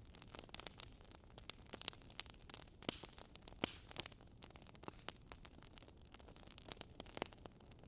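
Burning firewood crackling, with irregular sharp pops and snaps over a soft steady hiss.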